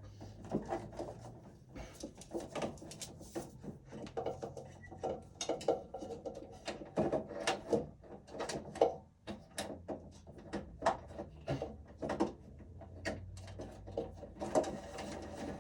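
Irregular light clicks, taps and rattles of wiring and hardware being handled by hand inside an electrical breaker panel, over a faint low hum.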